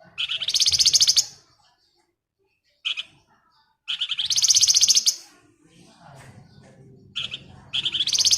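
Flamboyan songbird calling in rapid, rattling trills: three bursts of about a second each, evenly pulsed and high-pitched, with a short single note before the second and third.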